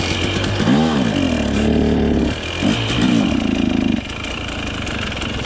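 KTM TBI two-stroke dirt bike engine running on the last of its fuel after a restart, its revs rising and falling twice, then settling to a lower idle about four seconds in. It is still running despite the nearly empty tank.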